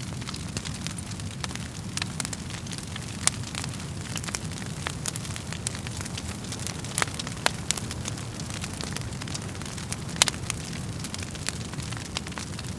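Wood fire crackling in a fireplace: a steady low rumble of the flames with frequent irregular sharp pops and snaps from the burning logs, a few of them louder.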